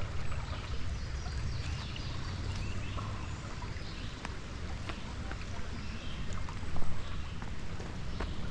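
Creek water running over rocks, a steady rushing with a low rumble under it, and a few sharp knocks; the loudest comes about two-thirds of the way through.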